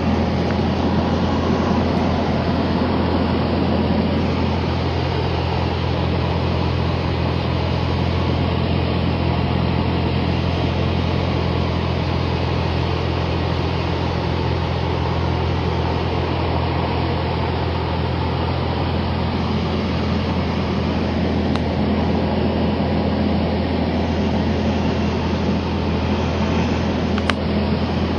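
Cessna 172's piston engine and propeller droning steadily in cruise flight, heard inside the cabin, with a steady low hum and a rushing of air over it.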